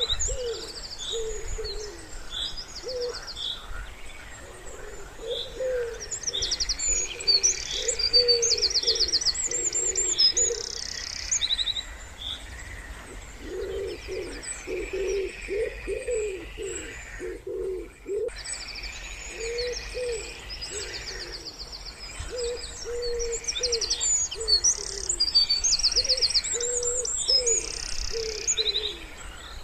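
Wood pigeons cooing in repeated low phrases, with songbirds singing high, fast trills over them in bursts.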